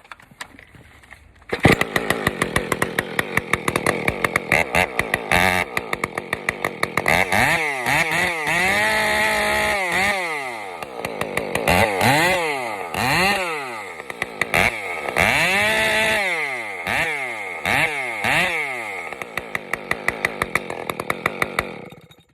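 Husqvarna 572 XP two-stroke chainsaw with a custom muffler, firing up about a second and a half in and running with an uneven, popping idle, then revved up and back down over and over before cutting off near the end.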